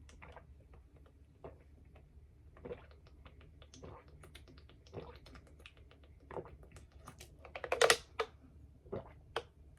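Eating and snack handling heard close up: sparse crisp clicks and crackles, with a short burst of louder ones about eight seconds in.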